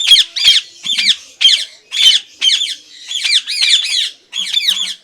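Yellow Indian ringneck parakeet chick giving rapid, repeated begging squawks while being hand-fed, about two or three calls a second.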